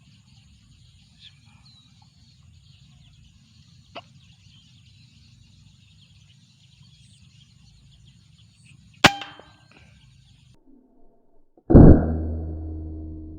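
A single sharp shot from a hunting air rifle about nine seconds in, over quiet field ambience with faint insects. About two and a half seconds later comes a louder sudden thud that rings on and fades slowly.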